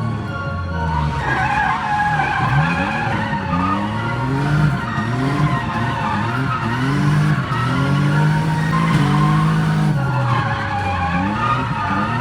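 A car drifting: the engine revs rise and fall again and again over a continuous tyre squeal.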